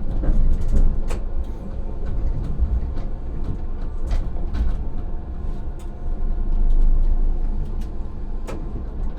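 Tram running, heard from the driver's cab: a steady low rumble with scattered sharp clicks and knocks.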